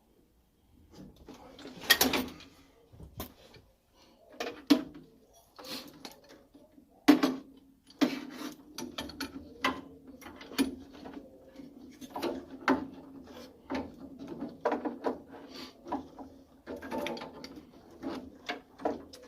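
Irregular clicks, knocks and clatter of hand work on a boiler, with a steady low hum underneath from about eight seconds in.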